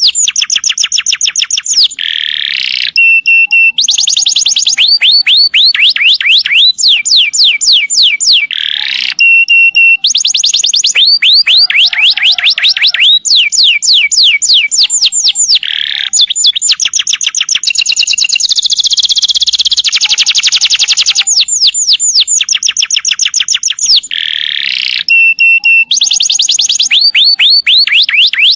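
Canary singing long rolls: rapid runs of high, falling whistled notes, broken now and then by short held tones and buzzy trills.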